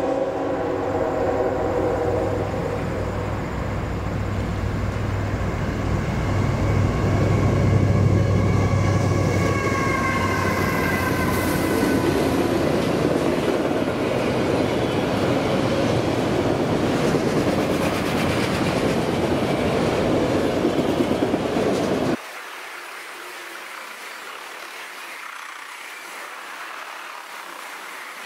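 CSX freight train passing close by. A diesel horn chord ends within the first few seconds, the locomotives' engines rumble loudest about eight seconds in, and then the autorack cars keep rolling past with a steady rail clatter. About 22 seconds in the sound drops abruptly to a quieter, thinner level.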